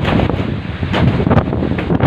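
Strong wind buffeting the microphone: a loud rushing with heavy low rumble that surges in repeated gusts.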